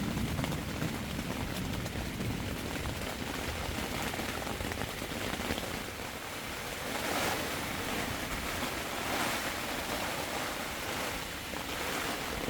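Heavy rain pouring down in a thunderstorm, with gusts of wind swelling a few times in the second half.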